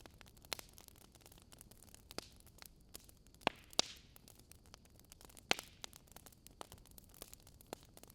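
Wood fire crackling in a fireplace: scattered sharp pops and snaps at irregular intervals over a low steady hiss.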